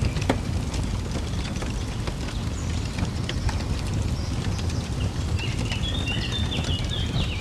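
Fire crackling with scattered pops over a low steady rumble, and a bird twittering in a quick run of high chirps from about five and a half seconds in.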